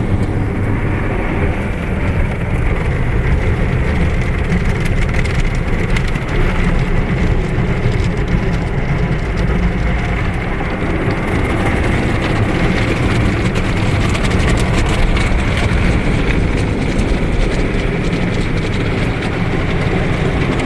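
Automatic car wash machinery working over the car, heard from inside it: a steady, loud rushing of water spray and brushes on the body.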